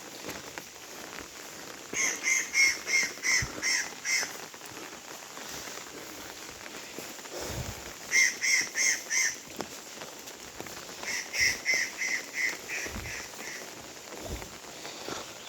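An animal calling in three runs of short, evenly spaced notes, about three a second: a run of about seven notes near the start, four notes past the middle and seven or eight more soon after.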